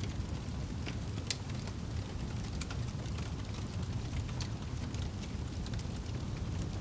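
Wood fire crackling: irregular sharp pops and snaps, a few at a time, over a steady low rush of burning.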